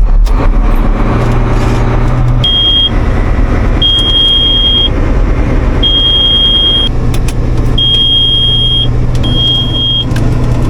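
Combine harvester engine running steadily while a high-pitched warning buzzer beeps five times, each beep half a second to a second long at uneven intervals: the machine's alarm for a straw spreader fault code, caused by a short circuit in the spreader wiring.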